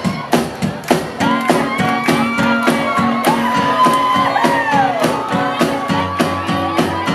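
Live rock band playing a song's intro, with a steady drum beat under sustained melodic lines that bend up and down in pitch, over shouts from a crowd.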